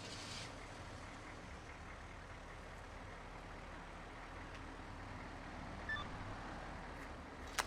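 A vehicle engine running steadily and faintly, with one sharp click near the end.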